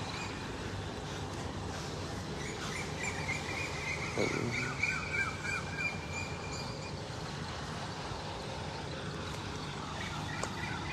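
Birds chirping and twittering, most busily a few seconds in, over steady low outdoor background noise.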